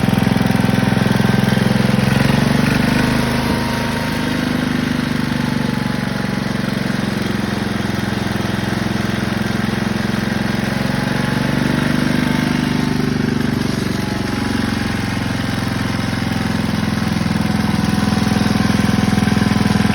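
Briggs & Stratton 19D single-cylinder engine on a garden tractor running steadily. It eases off a little about four seconds in and picks back up near the end.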